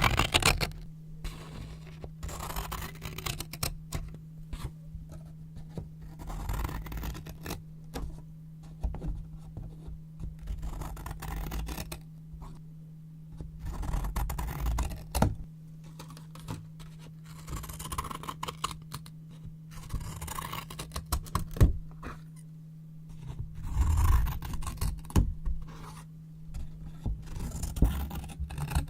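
Scissors cutting brown paper: irregular crisp snips and scraping rustles of the paper coming every second or two, with a few sharp clicks of the blades closing.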